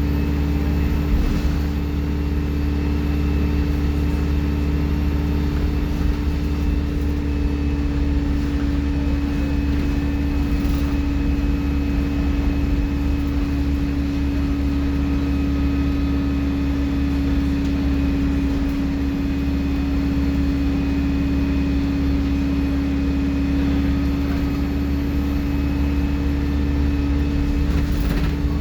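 Alexander Dennis Enviro 200 single-deck bus's diesel engine running steadily under way, with a loud turbocharger whistle over the engine drone. A thin high whistle rises and falls a little after the start and again near the end.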